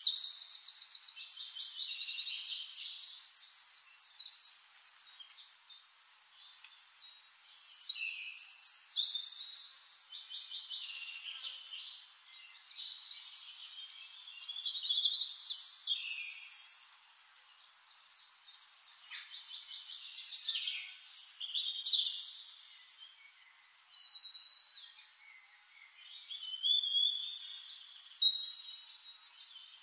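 A songbird singing long, varied phrases full of rapid high trills, one phrase about every six seconds, with quieter chirps between them.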